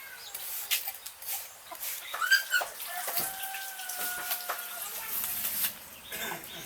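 A bird calling, with one held call lasting about two seconds a little past the middle, over a crackly background of small clicks.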